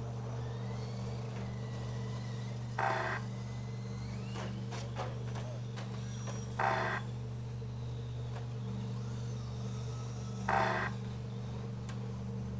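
Radio-controlled short course trucks racing: thin motor whines rising and falling, with three brief bursts of noise as trucks pass, about four seconds apart, over a steady low hum.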